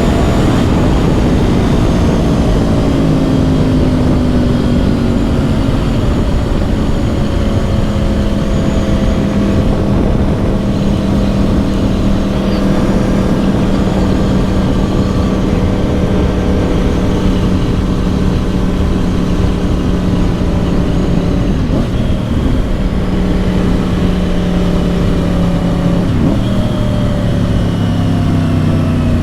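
2010 Yamaha R1's crossplane inline-four with dual Yoshimura exhausts, running under way over a steady low rumble. The engine note sinks slowly for about twenty seconds, then shifts and rises near the end as the revs climb again.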